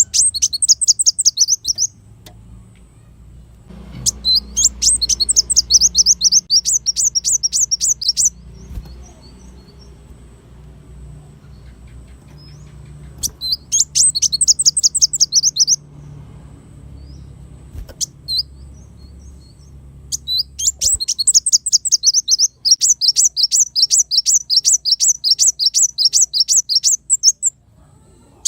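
Kolibri wulung (a sunbird) singing in four bouts of rapid, high, sharp repeated notes, several a second, with pauses of a few seconds between bouts.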